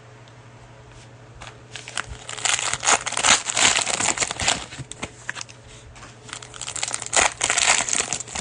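Plastic cellophane wrapper of a trading-card pack crinkling as it is torn open and crumpled, in two spells: the first starts about two seconds in, the second near the end.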